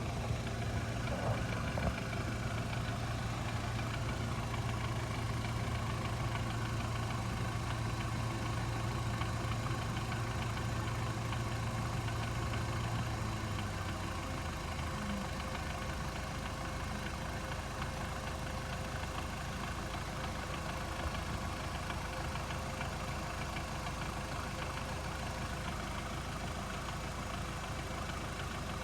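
2008 Hyundai Accent engine idling hot, heard close to the gearbox, with a light rapid knock coming from the gearbox side. The engine note drops a little about halfway through. The owner takes the knock, which appears only once the car is warm and stops when the clutch pedal is pressed, for a failing clutch release bearing or gearbox input-shaft bearing.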